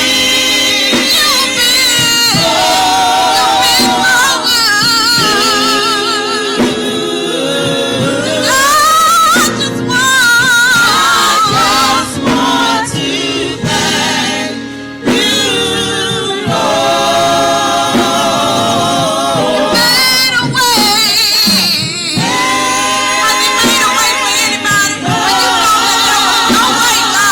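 Gospel choir and soloist singing a worship song with instrumental accompaniment, with long held, wavering notes.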